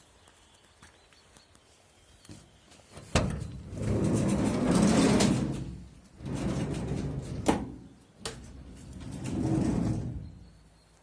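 A Ford Transit van's sliding side door being worked: sharp latch clicks, with the door running along its track in three swelling stretches.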